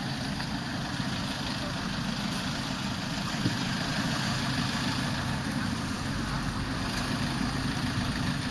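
Steady traffic noise on a busy street: vehicle engines running and idling, a continuous low rumble.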